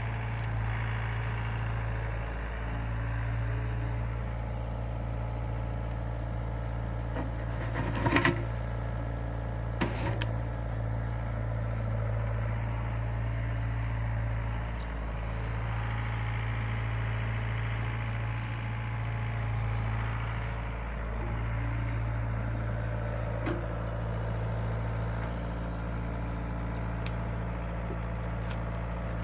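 Case excavator's diesel engine running steadily, with a couple of sharp knocks about eight and ten seconds in.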